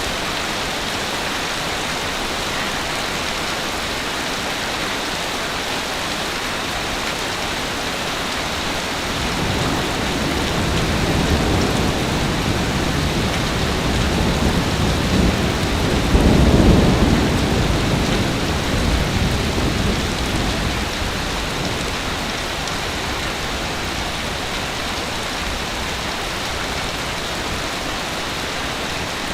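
Sea waves on a beach: a steady hiss of surf, with one larger wave swelling from about nine seconds in, breaking loudest a little past the middle, then washing back out to the steady hiss.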